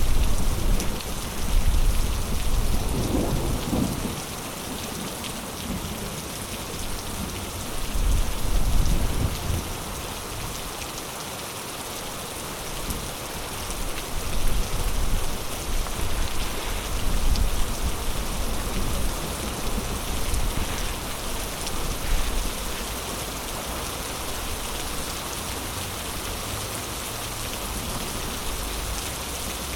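Heavy rain falling steadily, with low thunder rumbling through the first half and fading out in the second.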